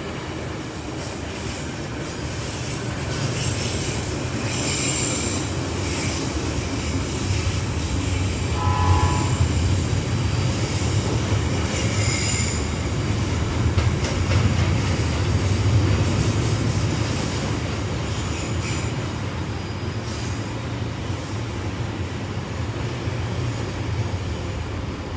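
Freight train rolling past: a steady low rumble of wagons on the rails that swells and eases, with short high-pitched wheel squeals about five and twelve seconds in and a brief faint tone near nine seconds.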